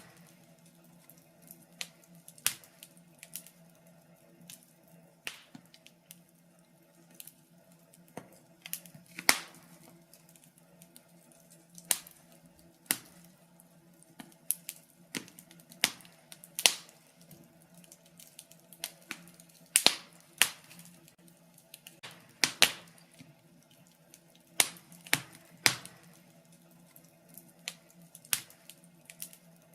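Fire burning in a fireplace, crackling with irregular sharp pops, some loud, a few every several seconds, over a faint steady hum.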